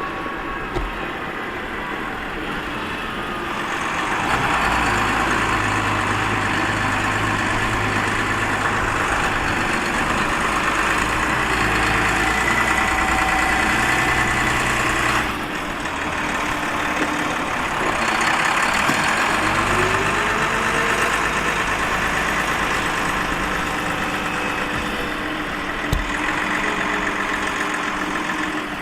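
Heavy diesel machinery at work: a Case 821F wheel loader loading a Volvo A30G articulated haul truck. The engine noise rises about four seconds in, eases off for a moment about halfway through, and a rising whine comes in around two-thirds of the way through. A single sharp knock sounds near the end.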